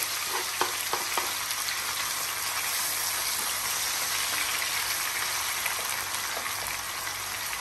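Chopped tomatoes, sweet peppers, scallion and onion sizzling steadily in hot oil in a frying pan as they are stirred with a wooden spatula, with a few light knocks in the first second or so.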